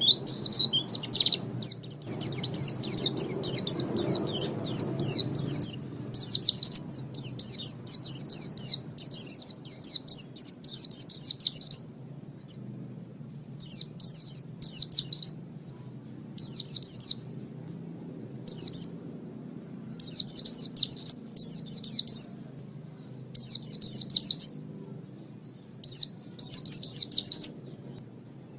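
White-eye (pleci) songbird singing a fast, high-pitched chattering song of rapid chirps. It runs unbroken for a while, then breaks into short bursts of about a second with pauses between them.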